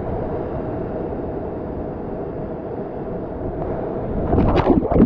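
Steady rush of falling and running water, then loud, irregular splashing and gurgling of water about four seconds in, lasting a second or so.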